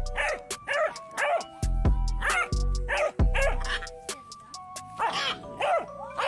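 A dog barking about six times at uneven intervals, over background music with a steady low beat.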